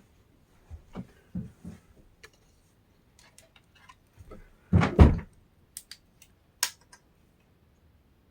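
Handling knocks on a hard surface: a few soft knocks, then a heavier double thump about five seconds in, followed by a couple of sharp clicks.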